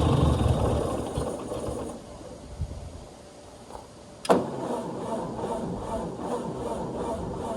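A Ford 640 tractor's four-cylinder engine runs and dies away over the first couple of seconds. After a short lull a sharp click comes, and the starter cranks the engine over with an even chugging of about three beats a second, as it is tried for a start.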